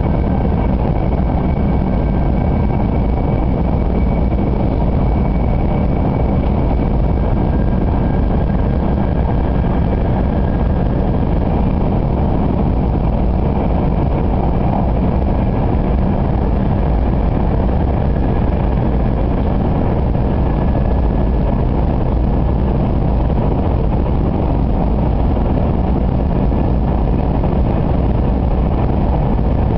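Kyushu Shinkansen 800 series train running on the line, heard inside the passenger cabin: a loud, steady rumble with faint high whines that drift slightly in pitch above it.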